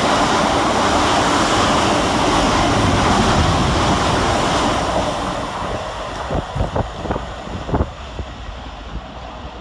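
Class 450 Desiro electric multiple units passing fast through the station: a loud rushing of wheels and air that fades after about five seconds, with a few sharp clicks as the train draws away.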